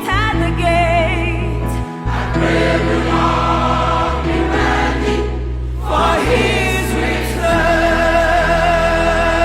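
A choir singing a gospel song with vibrato over held bass notes that change every couple of seconds.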